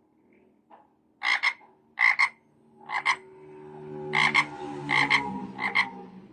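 Recorded frog croaks, short double croaks repeating about once a second, played through a talking pen's small speaker. Soft sustained music chords swell in underneath from about halfway through.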